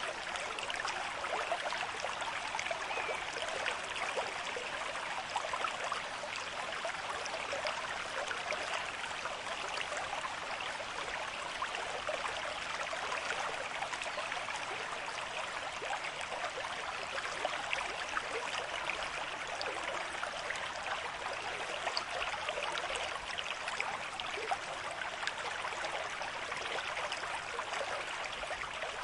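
River stream with moderate flow, water running and splashing steadily over rocks.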